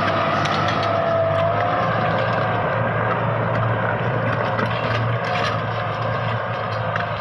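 Tractor engine running steadily under load, with a steady low hum and a higher whine above it.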